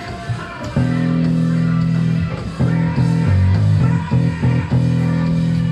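Rock band playing live: electric guitar and bass chords, held and then broken off in short stabs.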